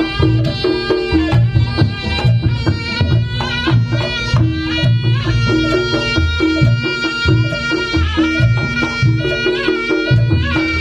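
Reog Ponorogo gamelan music: a shrill, reedy slompret shawm holds and bends a melody over a steady pattern of kendang drums and gong strokes.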